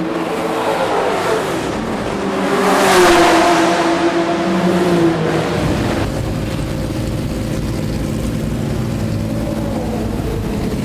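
Historic racing car engine at high revs passing close by. Its pitch slides down as it goes past, loudest about three seconds in. About halfway through the sound changes abruptly to a steady low engine rumble.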